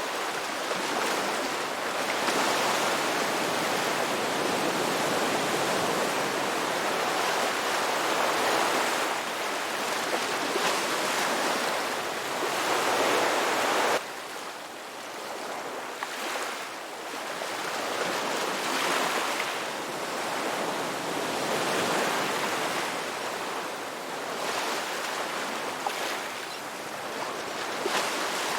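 Ocean surf: waves breaking and washing in a continuous rushing hiss that swells and eases every few seconds. About halfway through it drops suddenly to a quieter level.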